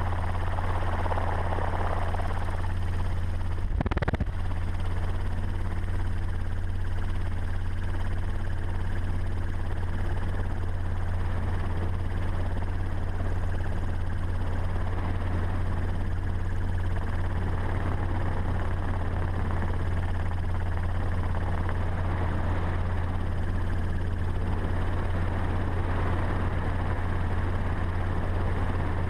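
Helicopter running in steady flight, a constant low drone with one short knock about four seconds in.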